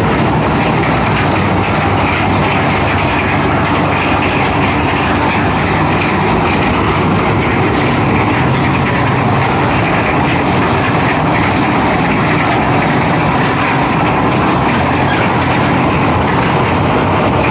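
Concrete mixer machine running: its engine and turning drum make a loud, steady mechanical rattle that does not change.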